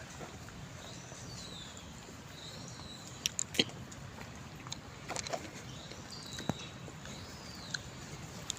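Faint forest ambience with scattered bird calls, short chirps that rise and fall, and a few sharp clicks or taps around the middle.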